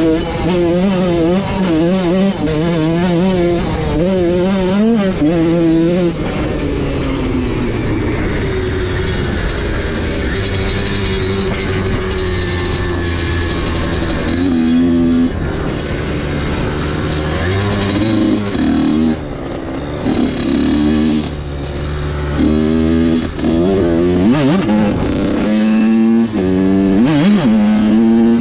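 Dirt bike engine revving, its pitch rising and falling again and again as the throttle is worked, with a steadier stretch in the middle.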